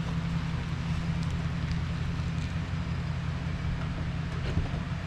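Engine running steadily at idle, an even low-pitched sound with a few faint clicks over it.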